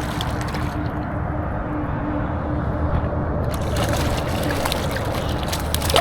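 A hooked rainbow trout splashing and thrashing in the water as it is reeled in. From about three and a half seconds in there are sharp splashes and crackling clicks over a steady low noise.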